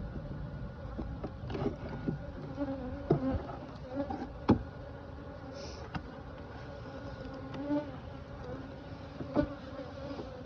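Honeybees buzzing steadily around an open hive, a droning hum that wavers in pitch, with a handful of sharp clicks and knocks, the loudest about halfway through.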